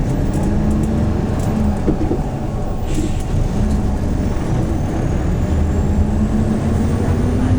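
Hyundai New Super Aero City CNG city bus's natural-gas engine running under way, heard on board, with a steady low engine note that lifts slightly near the end. A faint high whine rises through the second half, and there is a short rattle about three seconds in.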